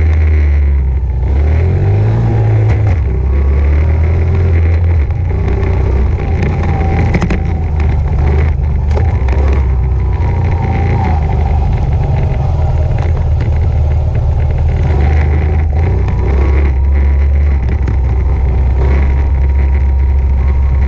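Honda CRF70 dirt bike's small single-cylinder four-stroke engine running while being ridden, its pitch stepping up and down with the throttle, with a brief rise about two seconds in.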